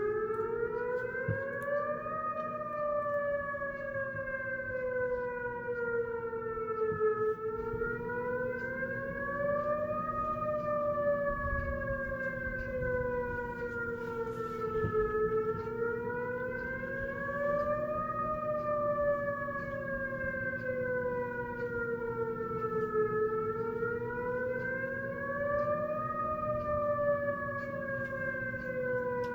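Whelen electronic warning siren sounding its wail tone. The pitch rises and falls slowly and evenly, about one full cycle every eight seconds.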